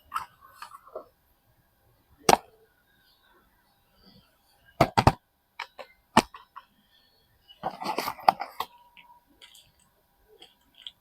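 Soap bars and their packaging handled during unpacking: a few separate sharp taps and clicks, a quick cluster of them about five seconds in, and a burst of rustling around eight seconds in.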